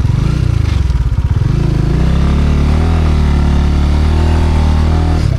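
Motorcycle engine, heard from on the bike, going from a chugging low idle to higher revs about a second and a half in, holding a steady pitch for a few seconds, then dropping back to idle near the end.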